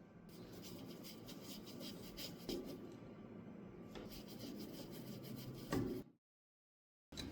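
Rapid rubbing and rasping strokes, as of a part of the rusty typewriter being scrubbed. The sound breaks off abruptly about six seconds in and starts again near the end.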